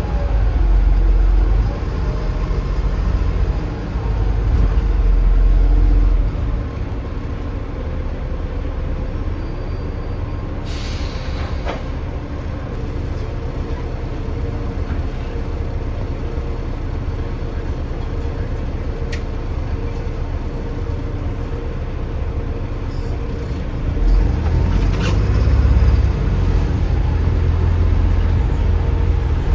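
Diesel bus engine running under load, pulling hard in the first few seconds and again near the end, with a steadier stretch between. A short hiss of air from the brakes about eleven seconds in.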